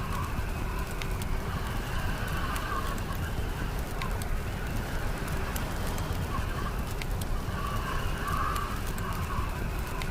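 Wood fire crackling with sharp, irregular pops over the steady low rumble of snowstorm wind, with a whistling howl of wind that swells and fades every few seconds.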